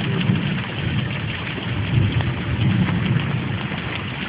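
Heavy rain falling steadily in a thunderstorm, with a low rumble underneath that rises and falls.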